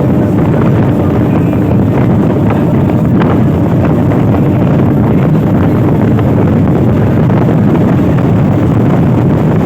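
Loud, steady rumble of a train running at speed, with wind buffeting the microphone and a few faint clicks.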